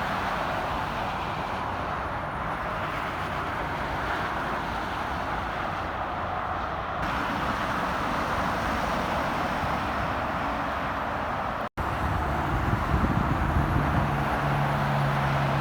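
Highway traffic passing: a steady rush of tyre and road noise. After a brief break near the end, a heavy vehicle's engine joins with a low steady drone.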